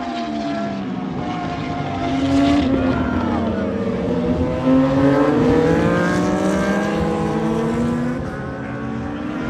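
Triumph 765cc three-cylinder Moto2 engines running, their pitch rising and falling as the revs change, with more than one engine heard at once.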